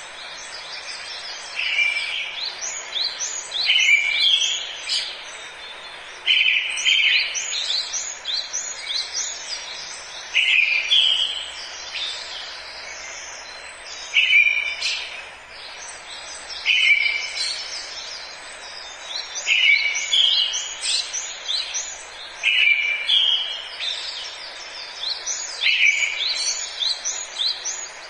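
Songbirds singing in a forest, a short repeated phrase of quick descending notes about every three seconds, over a steady background hiss.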